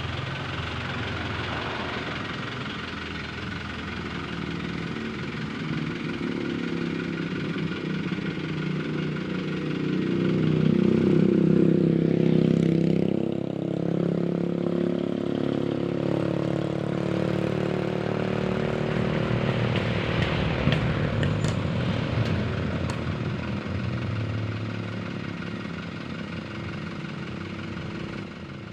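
Truck engines running and passing, growing loudest about ten to thirteen seconds in, with a second swell around twenty seconds.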